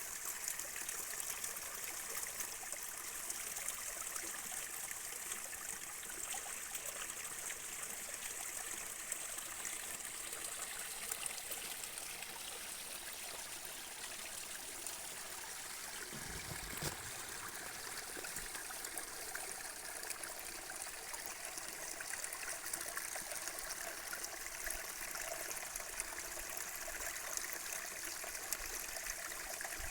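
A stream running steadily, a continuous rushing and trickling of flowing water. A brief low thump comes about halfway through.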